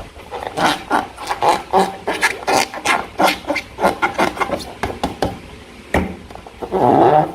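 Slime being handled and squished by hand, with rapid, irregular sticky clicks and squelches, and a louder, longer squish near the end.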